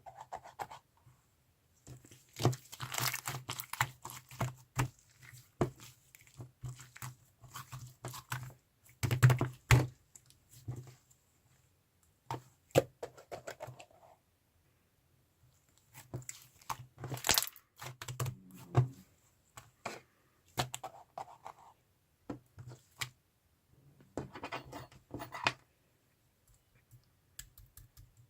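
Slime being played with by hand: irregular runs of sticky clicks, crackles and tearing sounds, broken by a few short quiet gaps.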